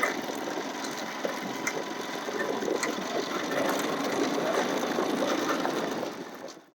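Bajaj Pulsar RS200 motorcycle running with its newly fitted chain and sprockets, a steady fast mechanical clatter with small ticks. It cuts off suddenly near the end.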